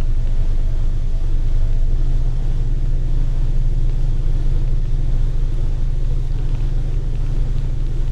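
Scania L94UB compressed-natural-gas bus under way, heard from inside: a steady low engine and road rumble.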